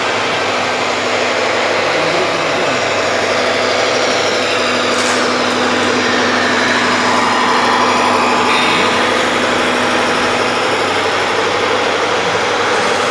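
Radio-controlled construction machine models running: a steady mix of small motor whine and engine-like noise, shifting slightly in pitch about halfway through.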